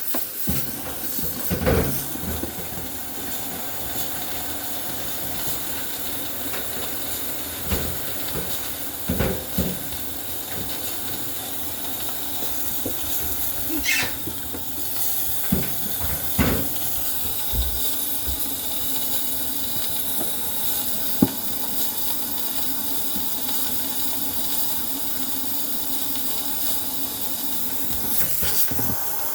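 Steady hissing of a steamer jetting steam to thaw ice in a Samsung refrigerator's frozen ice maker, with a few scattered knocks and clicks of parts being handled.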